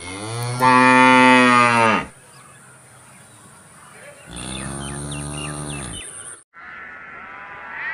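Cattle mooing: two long moos, the first loud and about two seconds long, the second softer, starting about four seconds in.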